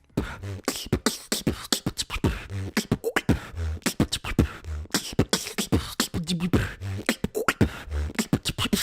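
Human beatboxing: a fast stream of sharp mouth-made snare and hi-hat clicks over deep bass notes that come about once a second, starting suddenly and stopping abruptly at the end.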